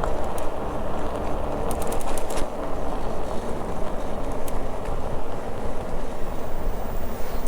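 Steady rolling rumble and rushing of a bicycle ride, tyre and wind noise on the mic, with a few light clicks, several close together about two seconds in.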